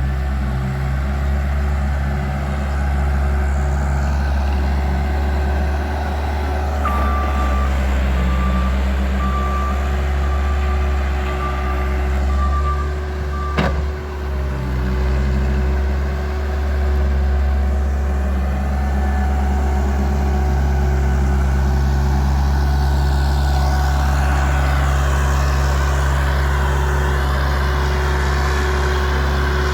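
Bobcat skid-steer loader's diesel engine running steadily under work. A reversing alarm beeps repeatedly for several seconds from about a quarter of the way in, and a single sharp knock comes just before the middle.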